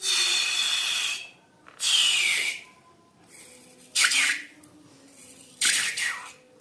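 Rubber balloons being emptied: four hissing, spurting bursts of air and contents from the balloon neck, the later ones with a squeal that falls in pitch.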